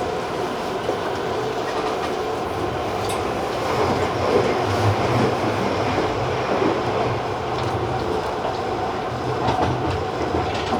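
Tobu TJ Liner electric train running into its terminal station: a steady running hum and rumble with a few light clicks of the wheels over rail joints and points.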